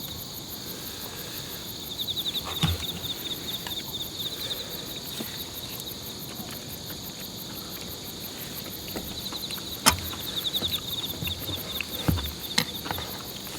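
Insects chirping in a steady high chorus, with rapid pulsed trills that fade in and out. A few sharp clicks come over it, the loudest about ten seconds in.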